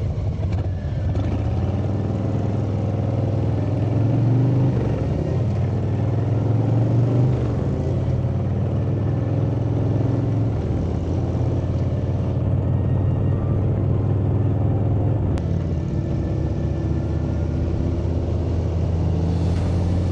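Harley-Davidson V-twin motorcycle engine running on the road, its note rising a few seconds in and then dropping back.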